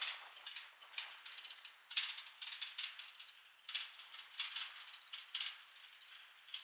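Freight cars of a passing train rattling and clicking, a dense irregular run of clanks several times a second.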